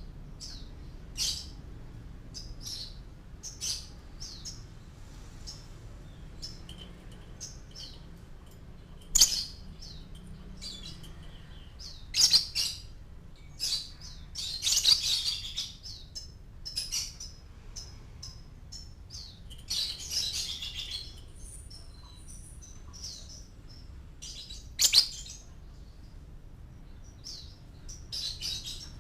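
Lovebird chirping and twittering: short, sharp, high calls at irregular intervals, the loudest about 9 and 25 seconds in, with longer twittering runs around the middle. This is the kind of lovebird song played as a 'pancingan' to get other lovebirds to sing.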